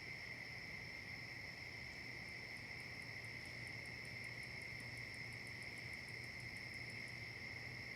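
Steady insect chorus, a continuous high trilling. From about two seconds in until near the end, a second insect adds fast, very high ticks, about six a second.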